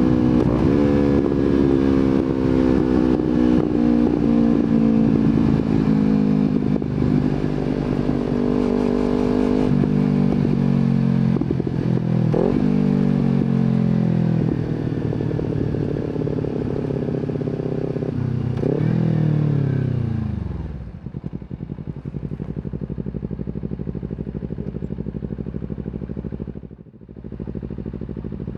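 Kawasaki Z250 parallel-twin engine through an aftermarket slip-on exhaust, the motorcycle slowing down: the revs fall steadily, with two quick blips as it downshifts. About twenty seconds in, the engine drops to a low, steady idle.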